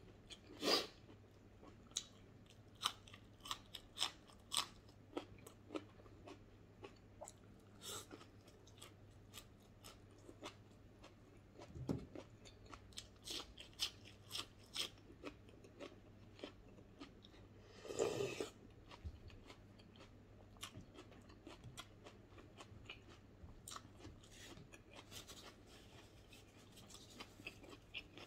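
A person eating native chicken and raw shallot with their hands: chewing and crunching, with scattered short irregular clicks and smacks. Louder crunches come about a second in and about 18 seconds in.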